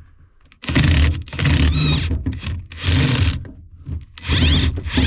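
Impact wrench (rattle gun) hammering at the 16 mm nut on the top of a Renault Twingo II rear shock absorber, in four short bursts of under a second each, starting about two-thirds of a second in.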